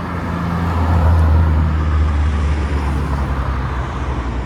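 Modified car engine running at a low, steady pitch as the car rolls slowly past. It grows louder about a second in and eases off slightly toward the end.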